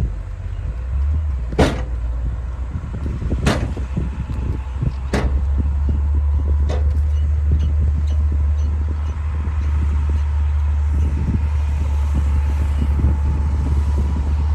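Diesel engine of a D60 bulldozer running with a steady low rumble that grows louder about five seconds in. Four sharp cracks come at even intervals of about a second and a half in the first half.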